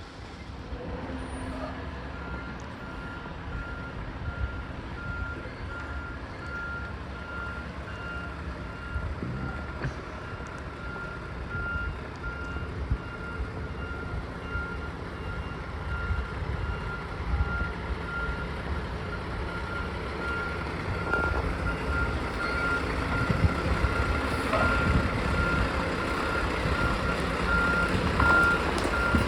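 Roll-off dumpster truck backing up: its reversing alarm beeps steadily from about two seconds in, over the sound of the truck's engine running, which grows louder toward the end.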